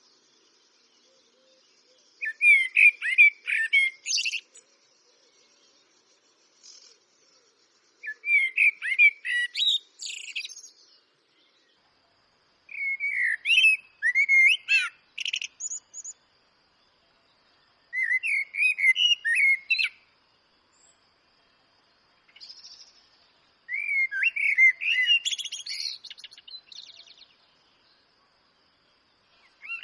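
Eurasian blackbird singing in five separate phrases of two to three seconds, about five seconds apart. Each phrase starts with lower warbled notes and ends in a higher, thin twitter. A faint steady high tone runs behind.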